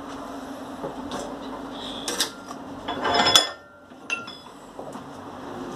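Steel parts clinking and clattering as they are handled, with a louder scraping burst about three seconds in, over a steady background hum.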